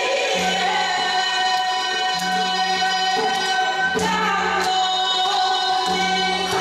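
Korean folk song (minyo) sung with instrumental accompaniment: long, held vocal notes over a sustained low tone, with a few sharp percussion strikes.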